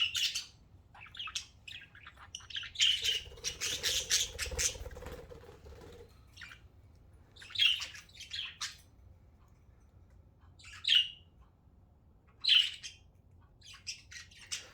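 Pet budgerigars squawking and chirping in short, sharp calls, with a dense run of chatter a few seconds in and then single loud squawks every second or two.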